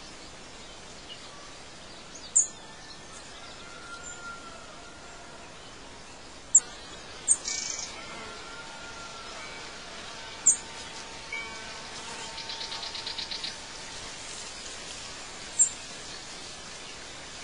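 Birds chirping over a steady outdoor hiss: short, sharp high chirps every few seconds, faint whistled notes, and a fast trill of rapid notes about twelve seconds in.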